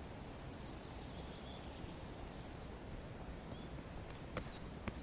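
Faint outdoor ambience: a small bird chirps a quick run of about five short high notes near the start, with a few scattered faint chirps later, over a low steady background noise. Two short clicks come near the end.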